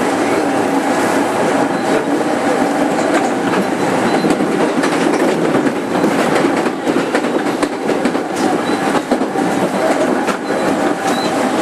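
Running noise inside a 205 series 5000-subseries electric multiple unit motor car, heard steadily. Wheels click irregularly over rail joints, with brief faint squeals from the wheels.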